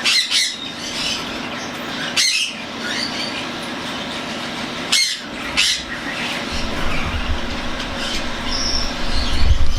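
A cockatiel chick making its continuous raspy begging-for-food call while being hand-fed, broken by a few sharper squawks.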